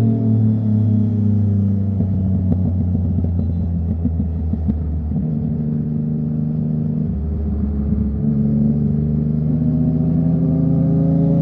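Sport motorcycle engines with loud aftermarket exhausts running at highway speed. The engine note sinks slowly at first, shifts pitch in steps around the middle, then climbs steadily near the end as the throttle opens.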